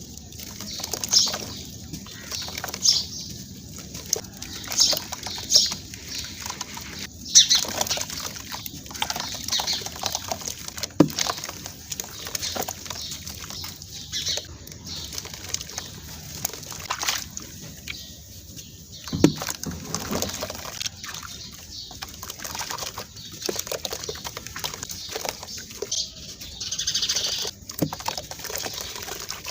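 Dry sand-cement crumbling as it is crushed: irregular gritty crunching and crackling, with a few sharper cracks.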